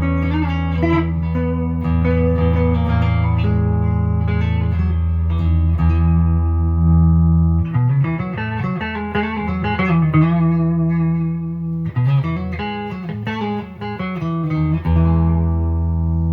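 Gibson Les Paul 50s Standard electric guitar with P90 pickups, played through an amp: ringing strummed chords, then single-note lead lines with bends about halfway in, ending on a held chord.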